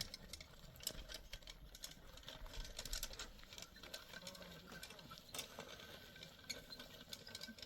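Scattered light clicks and taps at an uneven pace, over a faint steady hum.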